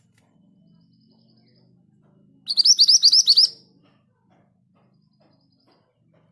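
Scarlet minivet (mantenan gunung) giving one quick rolling phrase of about eight sharp, rapidly repeated whistled notes lasting about a second, a little over two seconds in. A faint low hum runs underneath.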